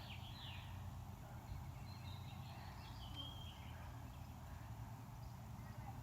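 Faint, short high peeping calls of goslings, a few of them about two to three seconds in, over a steady low outdoor rumble.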